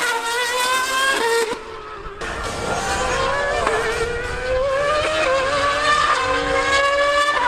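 A high-revving racing engine accelerating hard, its pitch climbing. The sound drops and quietens briefly about one and a half seconds in, then climbs steadily again.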